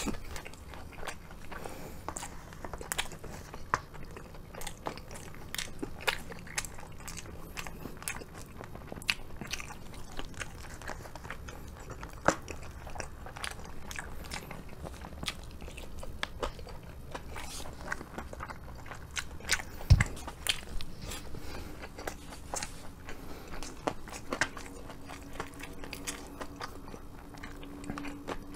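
Crunching and chewing of crisp fried chicken karaage, with many short sharp crackles of the batter throughout and one much louder thump about two-thirds of the way through.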